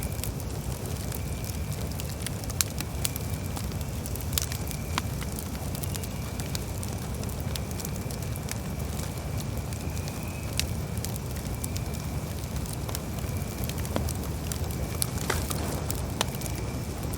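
Campfire burning, with frequent sharp crackles and pops over a low, steady rumble. A faint, steady high tone runs beneath throughout.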